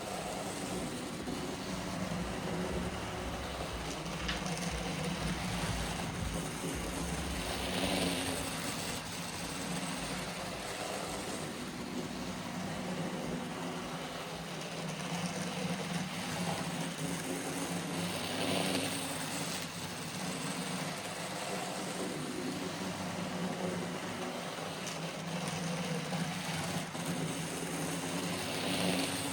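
N gauge Santa Fe model locomotive running on track after a motor replacement and service, with a steady motor whir and wheel noise that swells louder roughly every ten seconds.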